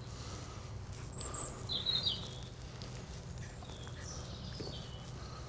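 Small birds chirping: a few short, high calls about a second in, around two seconds in and again around four seconds in, over a low steady hum.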